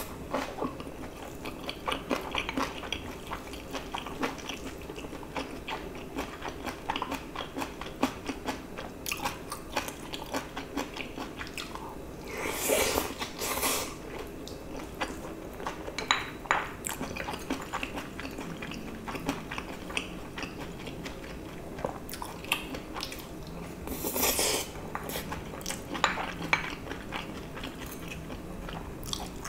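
Close-miked eating: wet chewing and mouth sounds, with a spoon scraping and clinking against a small bowl. A couple of longer, louder bursts come about halfway through and again near the end.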